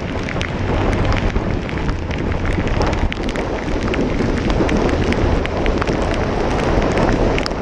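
Loud wind buffeting and rumbling on the rider's microphone on a motorcycle ridden in heavy rain, with raindrops ticking sharply and irregularly against it.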